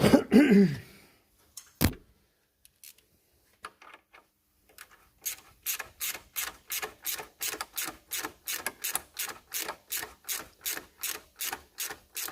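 Quarter-inch drive ratchet with a 10mm socket doing up a heat-shield bolt: a rapid, even clicking of about four strokes a second that sets in about five seconds in and keeps going. It follows a short loud noise at the start and a single knock.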